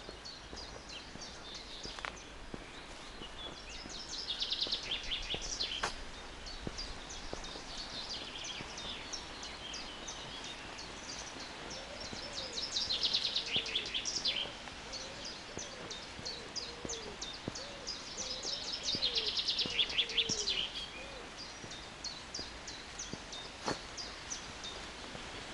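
Songbirds singing in a forest: one bird repeats a fast trilled phrase about two seconds long three times, while other birds chirp more softly in between. A few faint clicks sound underneath.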